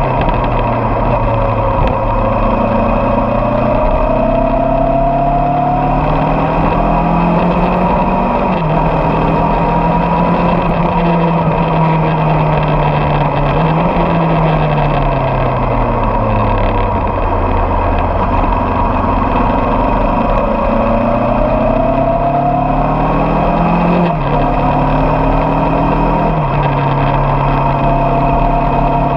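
Motorcycle engines running on a ride, their pitch rising and falling with the throttle, with gradual slides down and up in engine note.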